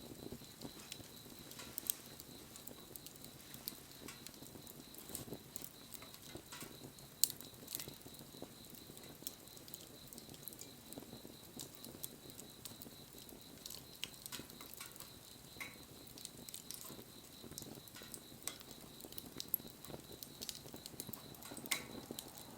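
Wood bonfire burning, crackling with irregular sharp pops over a soft hiss. A faint steady high tone runs behind it.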